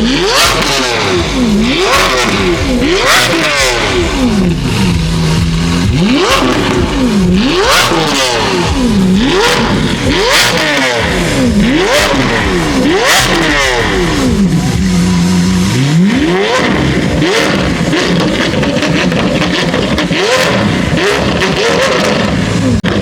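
High-performance car engine revved hard again and again, the pitch climbing and dropping every second or two and held at the top a couple of times.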